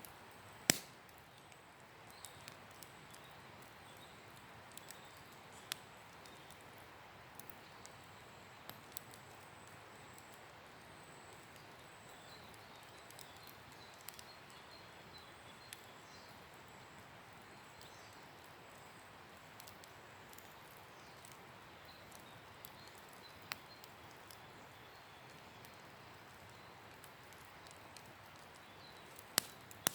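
Wood campfire crackling: scattered sharp pops and snaps over a faint steady hiss, the loudest pop about a second in and two more close together near the end.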